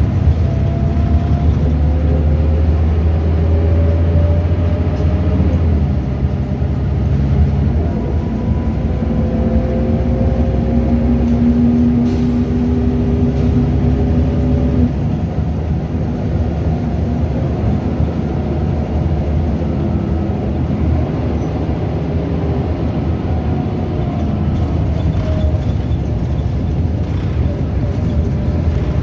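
Scania DC9 9.0-litre diesel engine and ZF Ecomat 5-speed automatic gearbox of a Scania L94UB bus under way. A steady engine drone runs under a whine that rises slowly in pitch as the bus picks up speed, with shifts in the sound about six and fifteen seconds in.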